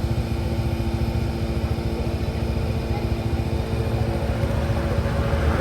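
Motorcycle engine running at a steady speed, with a low rumble.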